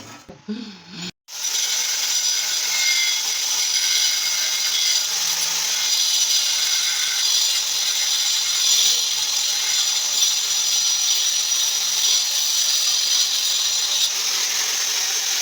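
A power tool cutting, running steadily for about fifteen seconds, starting about a second in and cutting off just before the end.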